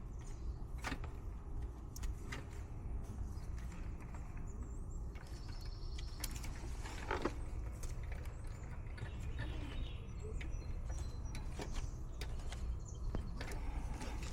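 Scattered small clicks and handling noises of hands reconnecting electrical wiring, red wire to red, over a steady low rumble.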